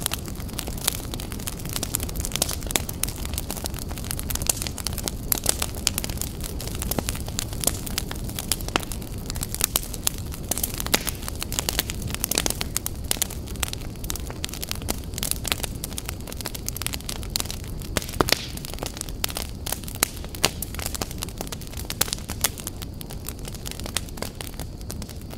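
Fire crackling: irregular sharp pops and snaps, many a second, over a steady low rush.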